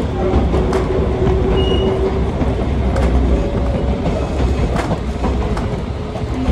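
Gakunan Railway electric train running, heard from inside the passenger car: a steady low rumble of wheels on rail, broken by a few sharp clicks as the wheels pass over rail joints.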